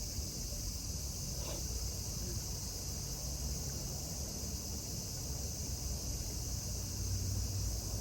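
Steady high-pitched insect buzz, with a low rumble underneath.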